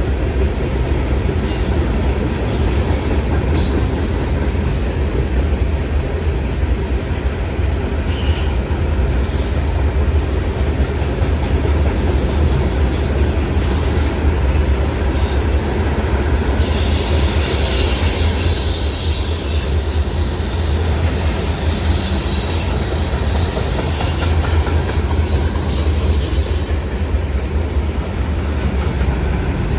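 A train rolling past with a steady heavy rumble and a few sharp clicks in the first half. From a little past halfway until near the end, a high wheel-on-rail squeal rides over the rumble.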